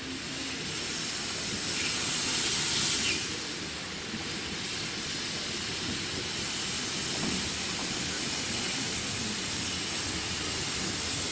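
Narrow-gauge steam locomotive hissing steam. It is louder for the first three seconds or so, dips briefly, then carries on steadily.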